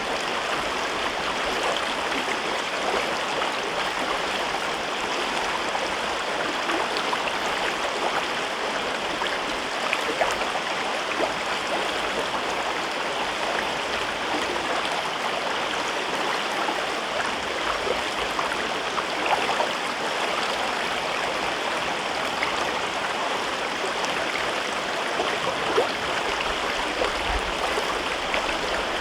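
River babbling steadily through a gorge, an even rush of flowing water with small splashes scattered throughout.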